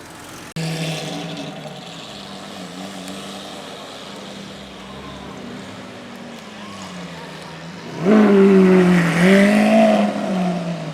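A car engine idling, then revved loudly about eight seconds in, the pitch climbing, dipping and climbing again before settling back.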